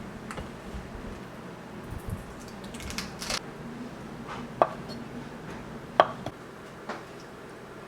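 Kitchen prep sounds: a few separate light knocks and clinks of utensils against dishes, two of them ringing briefly, over a faint steady hum.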